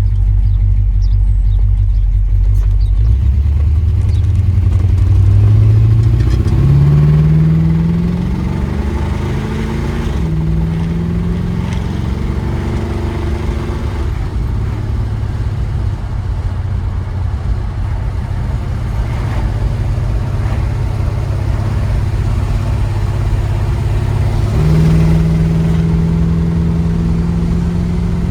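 Car engine and road noise heard from inside the cabin while driving. The engine pitch climbs as the car accelerates, drops at a gear change about ten seconds in, then holds steady while cruising, and rises again near the end.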